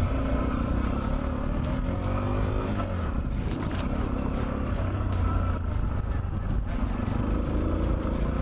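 Macbor Montana XR1's 125 cc single-cylinder engine running under way off-road, its note rising and falling with the throttle, with short sharp ticks throughout.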